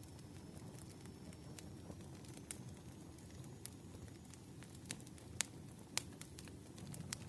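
Wood fire crackling: a low steady rumble of burning logs with scattered sharp pops, two louder pops about five and six seconds in.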